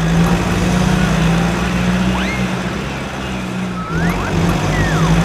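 A steady motor drone from a toy vehicle, with a few thin whistling chirps that rise and fall, about two seconds in and again near the end.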